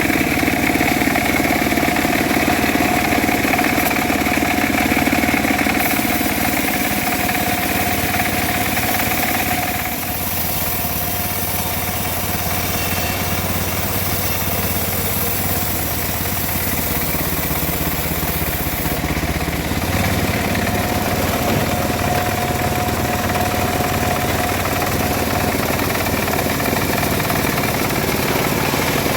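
Homemade engine-driven bandsaw mill running steadily. Its higher, steady tones fade about a third of the way in and come back about two-thirds of the way through.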